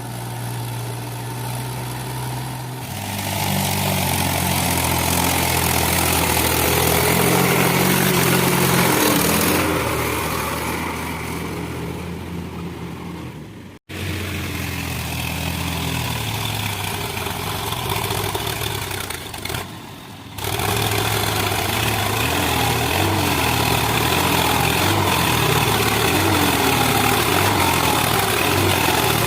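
Trakstar tractor's diesel engine running, getting louder about three seconds in. It breaks off abruptly about halfway through, then runs on, dipping briefly and picking up again near the two-thirds mark.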